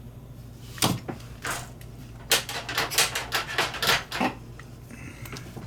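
Hand handling of a small butane lighter and its parts: sharp clicks and taps, two about a second in, then a quick run of about ten over two seconds.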